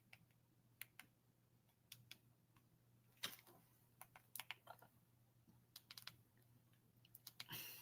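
Faint, irregular clicks of typing, scattered singly and in small clusters with gaps between.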